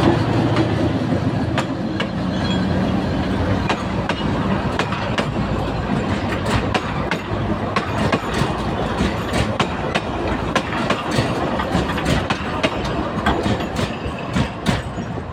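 A narrow-gauge TU2 diesel locomotive passes close by, its engine drone fading over the first few seconds. Its passenger coaches then roll past, the wheels clicking steadily over the rail joints, with the clicks getting sharper near the end.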